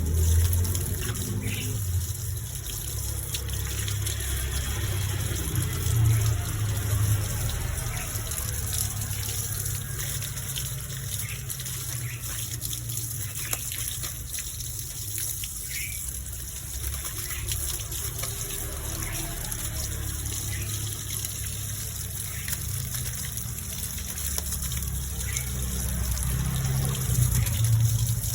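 Water spraying with a steady hiss over a low rumble, as when a caged bird is sprayed to tame it.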